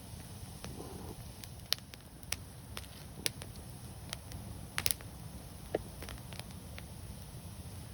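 Wood fire burning, with a steady low rumble and irregular sharp crackles and pops. The loudest is a quick double pop about halfway through.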